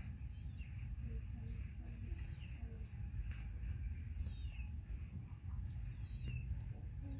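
A bird repeating a short, high, falling call about every second and a half, with softer wavering chirps in between, over a steady low outdoor rumble.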